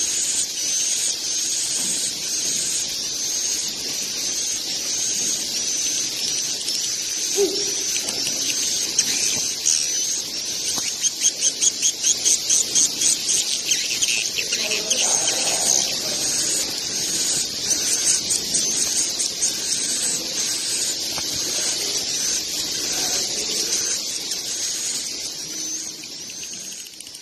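Swiftlets calling: a high, thin chirp repeated about once a second, with a fast run of clicks about halfway through.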